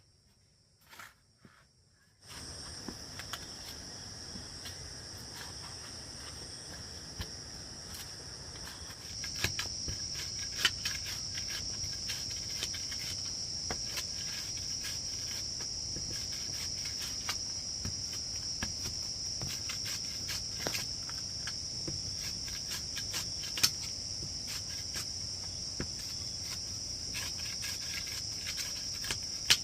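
Insects, cricket-like, shrilling in a steady high drone that starts abruptly after about two seconds of near silence and grows louder about nine seconds in, with scattered sharp clicks and taps.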